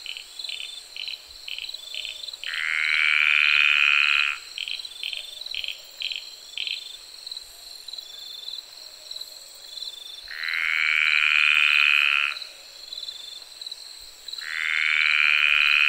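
Frogs calling: three long calls of about two seconds each, rising slightly in pitch, with quicker short chirps repeated between them. A steady high insect drone, typical of crickets, runs underneath.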